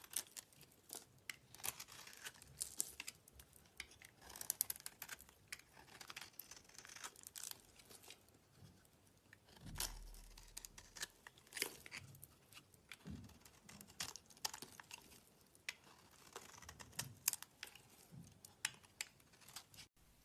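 Slime being squeezed and worked by hand, giving a dense, irregular run of sticky crackles, clicks and small pops with soft squishing swells. It cuts off abruptly near the end.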